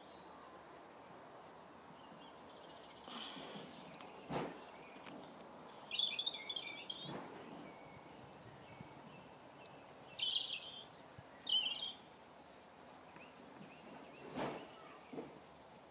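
Small birds chirping in short bursts, a cluster about six seconds in and another around ten to twelve seconds, over faint steady background noise. A few soft scrapes come from a pencil drawing on paper.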